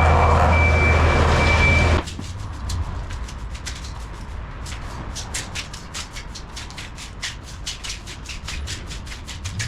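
Skid steer engine running with a steady low hum and a thin high whine, cut off abruptly about two seconds in. A quieter run of quick, sharp ticks follows, about four a second.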